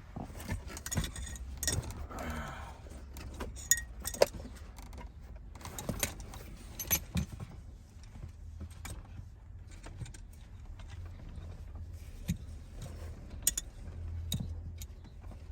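Scattered light metallic clicks, clinks and rattles as tools and metal parts are handled during a car seatbelt retractor installation, over a low steady hum.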